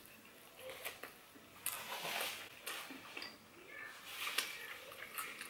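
Chewing a mouthful of McMuffin: soft wet mouth sounds with scattered clicks, a little louder about two seconds in and again past four seconds.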